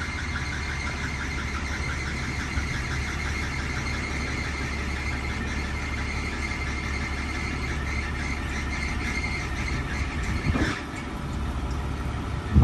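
Bucket truck running: a steady low engine drone with a high squealing whine over it. The whine eases off about eleven seconds in, and a sharp knock comes at the very end.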